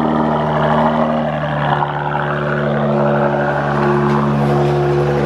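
Straight-piped V6 of a 2014 Dodge Challenger SXT, resonator and mufflers deleted, running steadily at low revs, heard from inside the cabin. The pitch dips slightly about a second in, then holds.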